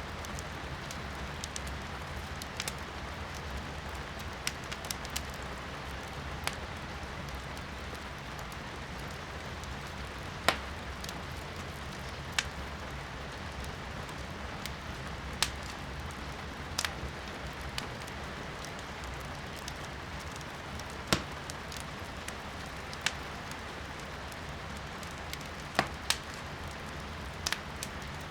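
Wood fire in a fireplace crackling, with sharp pops every second or two, the loudest about a third and three quarters of the way through, over the steady hiss of rain heard from indoors.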